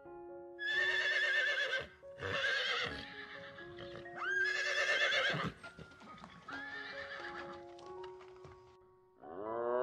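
A horse neighing four times, each whinny quavering in pitch, over soft background music. A different, long rising animal call starts just before the end.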